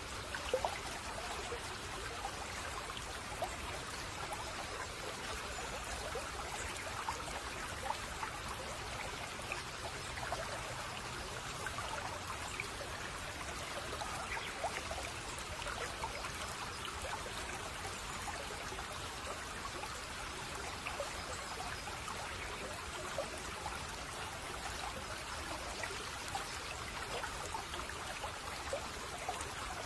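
Shallow brook babbling and trickling steadily, with small splashing ticks over an even rush of water.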